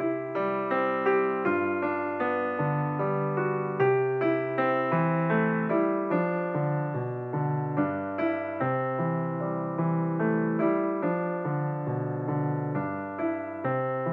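Background piano music: a flowing line of single notes, each ringing and fading, over lower bass notes that change about every second.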